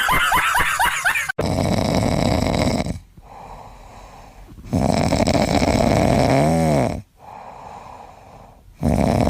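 A pet snoring, with loud rasping breaths of about two seconds each alternating with quieter stretches. It is preceded in the first second or so by a rapid run of short squeaky chirps that cuts off abruptly.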